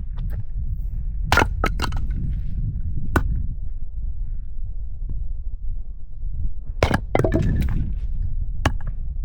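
A series of sharp cracks and clinks over a steady low rumble, bunched about a second in and again around seven seconds in, with a single one near the end.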